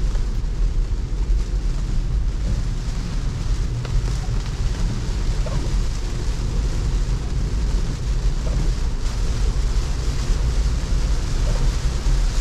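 Heavy rain and wet-road tyre noise heard inside a moving car: a steady low rumble under an even hiss.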